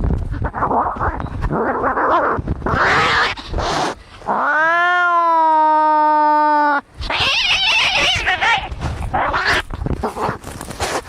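Angry cats fighting: hissing and spitting, then one long yowl of about two and a half seconds in the middle, then more hissing.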